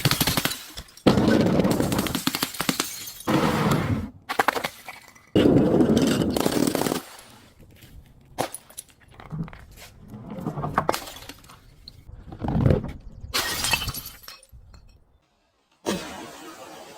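Glass bottles breaking and shattering: about four loud crashes with crunching in the first seven seconds, then a few shorter, quieter crunches of glass.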